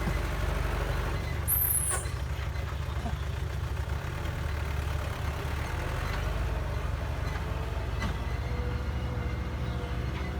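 Heavy diesel engine of construction machinery running steadily with a low, even pulse, and a brief high-pitched hiss about one and a half seconds in.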